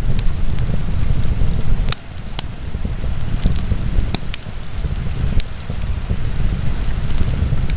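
Wood fire in a fireplace crackling, with irregular sharp pops over a steady low rumble; the rumble drops for a moment about two seconds in.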